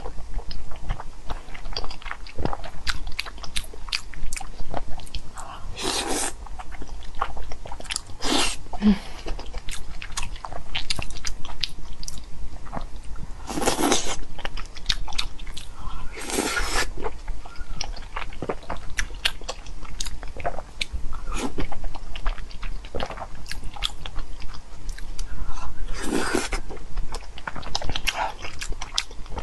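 Close-miked mukbang eating sounds of soft, saucy spicy pig brain: wet chewing and smacking with many small mouth clicks, and a few longer, louder sucking slurps scattered through.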